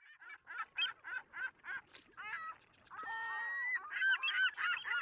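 A flock of birds calling: one bird gives a rapid series of short calls, about three or four a second. From about two seconds in, many overlapping calls from several birds take over and grow louder.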